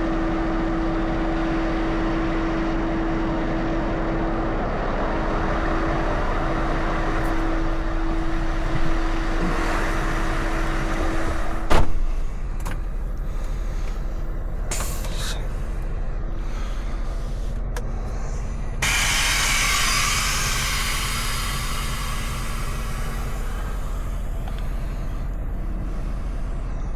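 Scania V8 truck engine idling, heard from inside the cab, with a steady hum. A single sharp click comes about twelve seconds in, and a hiss runs for about five seconds later on.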